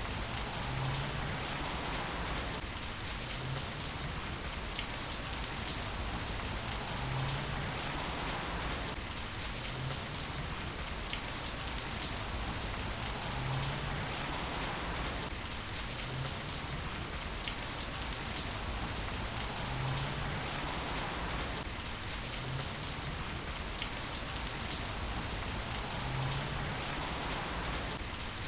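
Heavy rain falling steadily, with sharp drop ticks scattered through it. The same pattern comes round again about every six and a half seconds.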